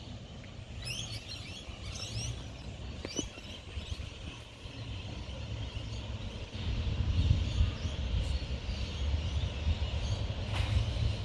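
Small birds chirping outdoors, short high calls repeated several times in the first few seconds, over a low, uneven rumble that grows louder about two-thirds of the way through.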